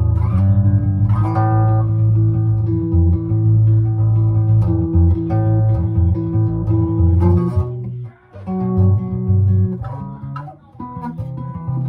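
Guitar music with a bass line, plucked notes held over a repeating low figure, with two short breaks about eight and ten and a half seconds in.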